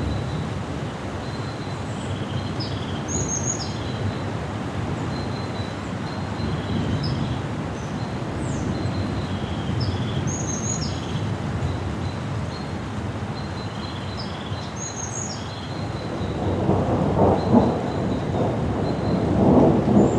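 Thunder rumbling low and continuously, swelling into two louder rolls near the end, over a background of wind. Birds chirp short high notes through it.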